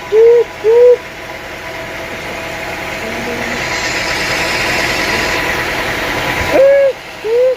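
A saw cutting through a teak log: a hiss that builds slowly and stops abruptly about six and a half seconds in, over an engine running steadily. Short, loud rising-and-falling tones sound three times at the start and twice near the end.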